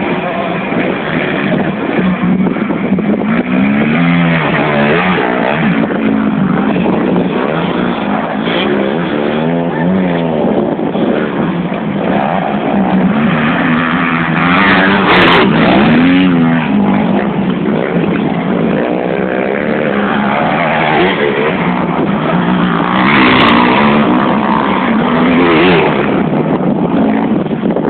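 Motocross dirt-bike engines revving, loud, their pitch rising and falling again and again as the bikes speed up and ease off.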